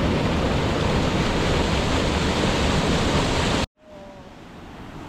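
Steady rush of a rainforest waterfall. About three and a half seconds in it cuts off suddenly, then returns as a much quieter rush that slowly builds.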